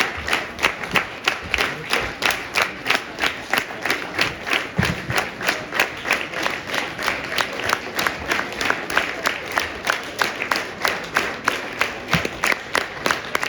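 Theatre audience applauding in unison, everyone clapping together in a steady rhythm of about three claps a second.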